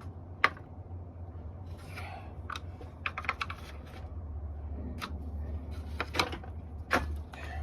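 Irregular light clicks and knocks from hand work with tools and plastic trim clips, over a steady low hum.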